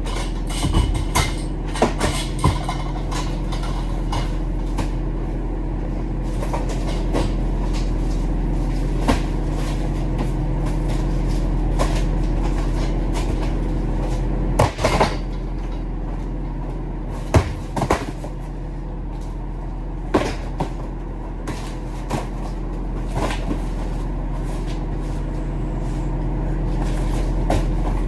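Delivery truck's diesel engine running with a steady drone, with scattered knocks and rattles throughout, the loudest about 15 and 17 seconds in.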